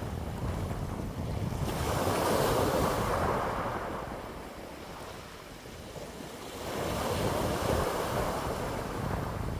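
Wind blowing in gusts that swell and die away twice, with a steady low rumble of wind buffeting the microphone.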